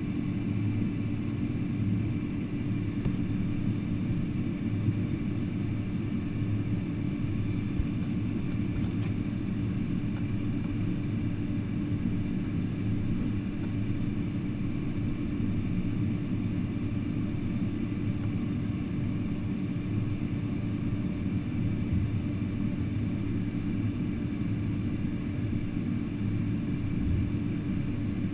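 Steady cabin noise inside a Boeing 747-400 on the ground after landing: an even engine rumble with a constant low hum and a faint high tone running through it.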